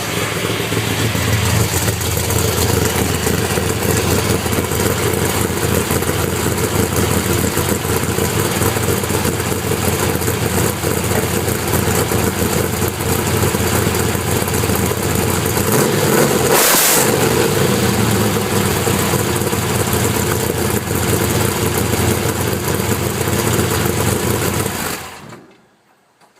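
1982 Camaro's 383 stroker small-block V8, built with a solid roller cam and an 850 double-pumper carburetor, running loudly at idle. About two-thirds through it is blipped once briefly, and near the end it is shut off, the sound stopping abruptly.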